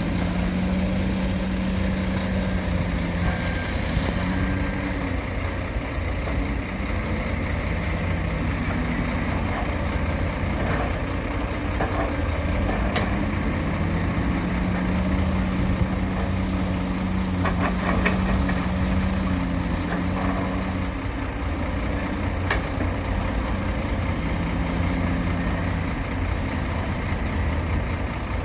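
Heavy diesel engines of an excavator and dump trucks running steadily, the engine note swelling for a few seconds at a time and easing off again. A few sharp knocks sound around the middle.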